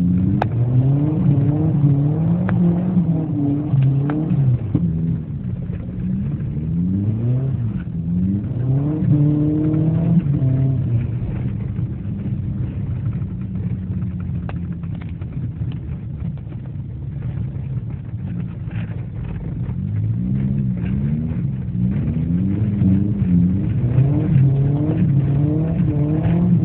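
Car engine heard from inside the cabin, revving up and down over and over as the car is driven hard on snow, with a steadier, slightly quieter stretch in the middle.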